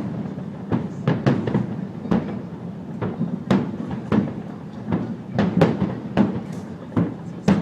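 Fireworks shells bursting in an irregular volley, a dozen or more sharp bangs with echoing tails over a steady low rumble.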